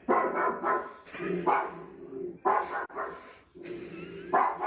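A dog barking repeatedly, a string of loud barks with short gaps between them.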